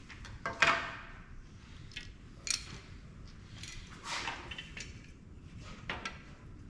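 Small metal and plastic parts from a dismantled printer being set down and shuffled on a table: a handful of separate clinks and clatters with a brief metallic ring, the loudest about half a second in.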